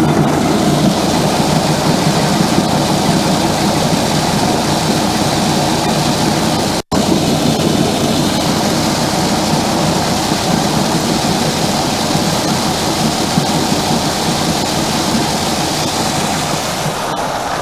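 Grain auger running while barley grain pours from an opened bin into its hopper: a steady rushing hiss of falling grain over the machine's running noise. The sound cuts out for an instant about seven seconds in.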